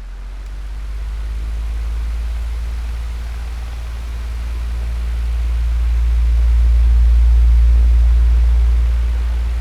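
Electric fan running: a steady rush of air over a low motor hum, slowly growing louder over several seconds and easing off again near the end.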